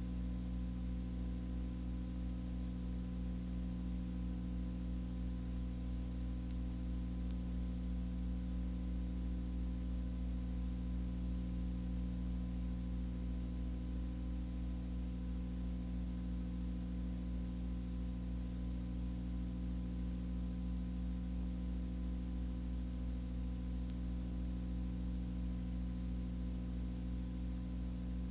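Steady low hum made of several even tones, with a hiss over it, unchanging throughout.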